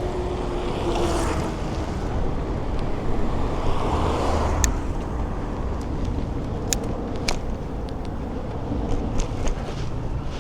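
Road traffic passing a moving bicycle, over a steady low rumble of wind and road noise on the microphone. Traffic noise swells twice, and a few sharp clicks come in the second half.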